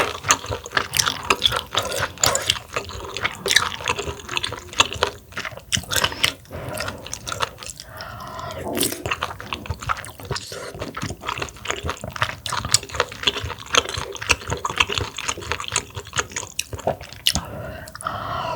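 Close-up wet eating sounds: chewing mussel meat and slurping soup, with a steady stream of sharp wet smacks and clicks and one longer slurp about halfway through.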